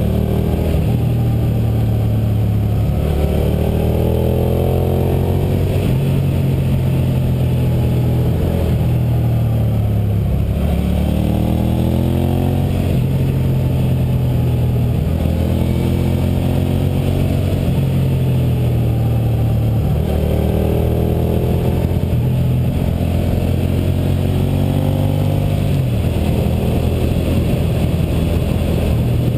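Suzuki SV650's 645 cc V-twin engine pulling the bike along under way, its revs climbing and dropping back several times as the rider accelerates and backs off through the curves.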